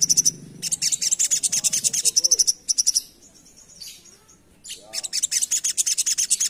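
Crimson sunbird (sogok ontong) singing a rapid, high chattering run of notes, about ten a second, in two long bursts with a short pause between.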